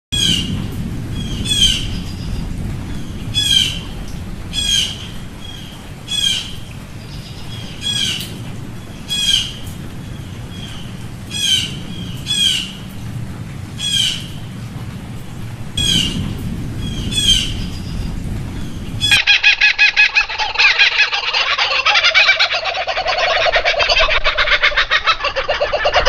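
Bird calls: a sharp, falling call repeated about every second and a half over a steady low rumble. About three-quarters of the way through it switches abruptly to a dense, rapid chattering of many birds.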